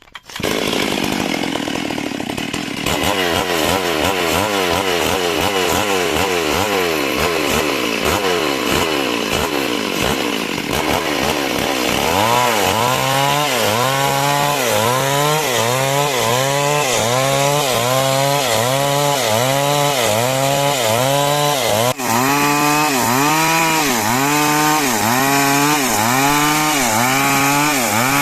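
Two-stroke chainsaw running under load while sawing timber into rafters. It comes in loud right at the start, and from about twelve seconds in its engine pitch dips and recovers in a steady rhythm, about once a second.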